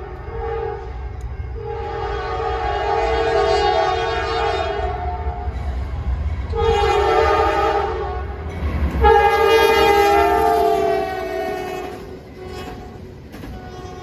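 Diesel freight locomotive's multi-chime air horn sounding the grade-crossing sequence: a blast ending about a second in, a long blast, a short one, then a final long blast that fades out near the end. A low rumble of the moving train runs underneath.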